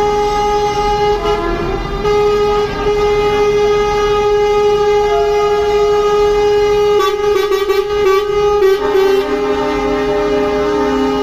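Truck air horns blowing long and steady, several pitches overlapping. Near the end a lower horn joins in.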